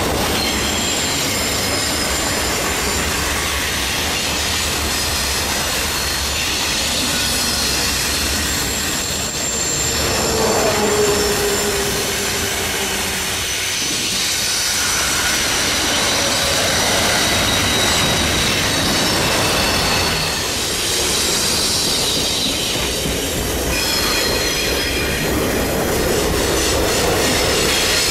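CN Q106 freight train rolling past, a steady rumble of wheels on rail with thin, high steel-wheel squeals. A brief falling tone cuts in about ten seconds in.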